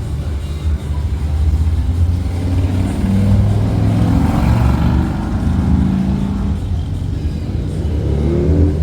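Motor vehicle engines running, with a vehicle passing by about halfway through and an engine revving up near the end.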